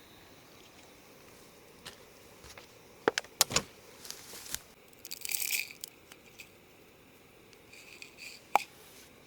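Sharp clicks and knocks of hard objects being handled: a cluster of loud knocks about three seconds in, a brief scrape a couple of seconds later, and one more sharp click near the end.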